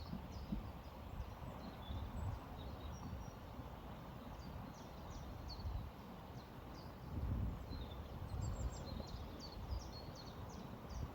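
Steady hiss of a flowing river, with small birds repeatedly giving short, high, falling chirps over it. There are low rumbles of wind on the microphone, strongest about seven seconds in.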